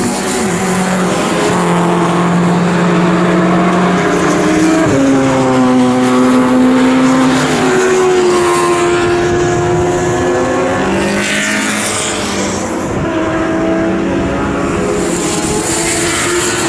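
Race car engines running at high revs, more than one at a time, with the pitch stepping and gliding up and down as the cars change gear, brake and accelerate.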